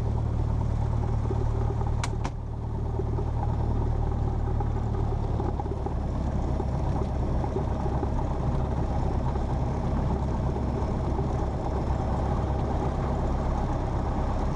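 Cessna 172P's four-cylinder Lycoming engine running steadily at low taxi power, with its propeller hum. There are two short clicks about two seconds in.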